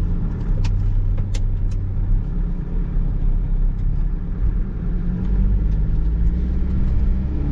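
Steady low rumble of a vehicle on the move, with a few sharp clicks about one to two seconds in.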